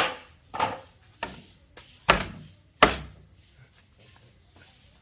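Several hard knocks on wood, about five in the first three seconds.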